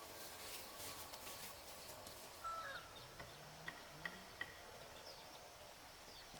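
Quiet farmyard ambience with a few short bird chirps and light clicks or rustles.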